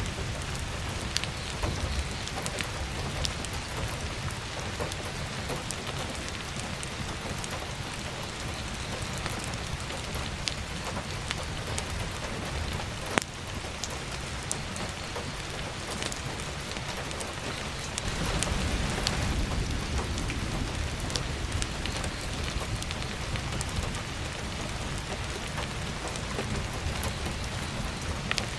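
Heavy rain falling steadily on a roof and skylight, with scattered sharp crackles and pops from burning firewood. A low thunder rumble swells for a few seconds a little past the middle.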